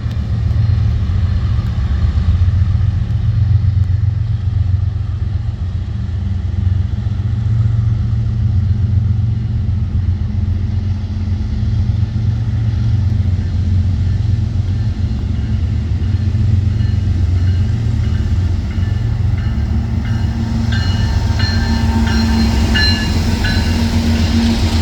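A train passing on the tracks: a steady, loud low rumble of rail cars rolling by. High-pitched wheel squeals start about 20 seconds in.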